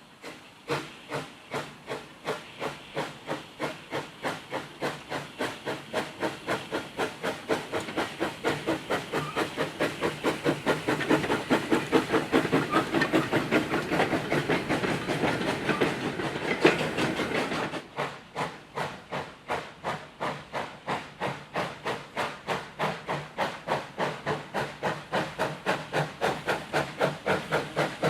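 Steam locomotive working hard: chuffs from the chimney over a steady hiss of steam, quickening from about two to about three a second and growing louder, with a sudden drop in loudness about two-thirds of the way through.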